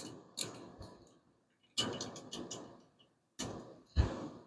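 Hand socket ratchet clicking in short runs as valve-train bolts on a 5.7 Hemi engine are tightened a little at a time, with a few separate light clicks and a tighter run of clicks about two seconds in.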